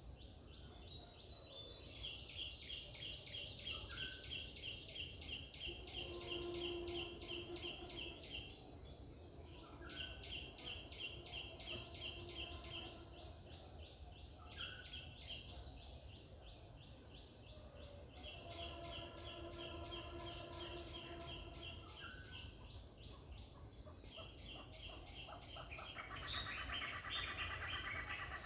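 Outdoor chorus of insects and birds: a steady high insect buzz, with repeated trills of several seconds each and short rising chirps between them. A denser, louder trill comes near the end.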